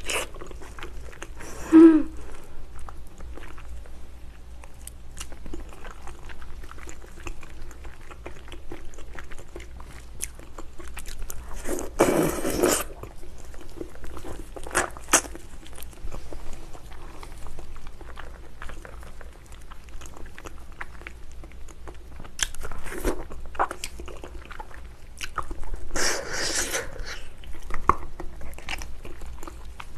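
Close-up eating sounds of a person biting and chewing spicy braised ox foot held in gloved hands. The meat is long-boiled and very soft and gelatinous. Irregular mouth clicks and smacks run throughout, with louder, longer bursts about twelve and twenty-six seconds in.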